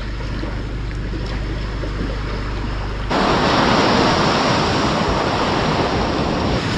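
Ocean surf and wind, a steady wash of noise that jumps louder about three seconds in.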